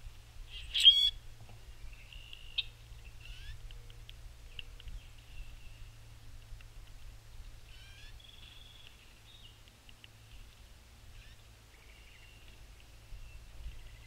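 Wild birds calling: one loud, harsh, squeaky call about a second in, then scattered short chirps and calls.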